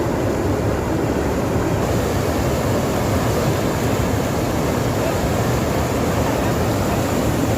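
Floodwater from heavy rain rushing across a road, a loud, steady rushing noise with no breaks.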